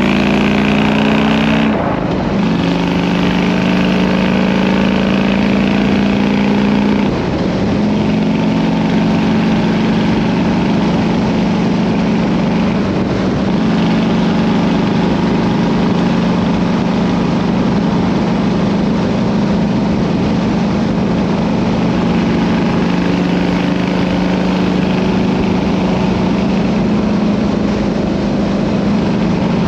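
Harley-Davidson Road King's V-twin engine running under way through its exhaust; the engine note climbs and drops about two seconds in and changes again a few seconds later, like upshifts, then holds a steady cruising drone.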